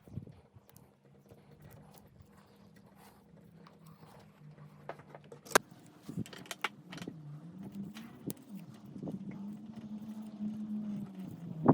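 Faint steady engine hum whose pitch dips and then rises about two-thirds of the way through before holding steady, with scattered light clicks and taps, one sharper click about halfway through.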